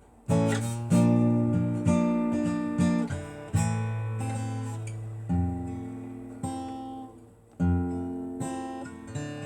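Acoustic guitar strumming chords, each struck hard and left to ring and fade before the next, about eight strokes in all, with no singing.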